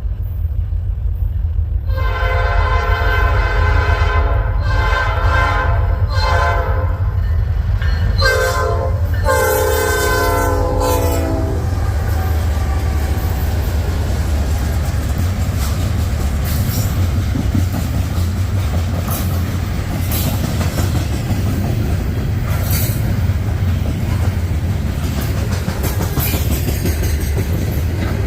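Diesel freight locomotive's air horn sounding a chord in four blasts, long, long, short, long: the grade-crossing signal. The steady low rumble and clickety-clack of the passing freight train goes on after the horn stops.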